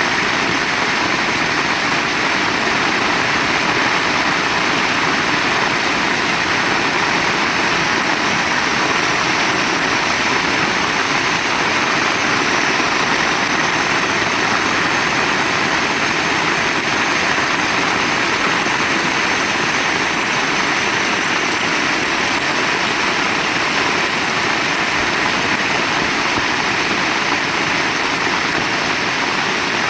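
Heavy rain falling steadily, a dense, even hiss with no let-up or thunder.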